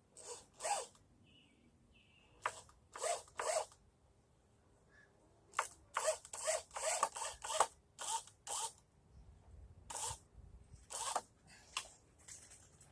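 An irregular series of short, hissy rustling bursts, several quick ones in a row, then pauses.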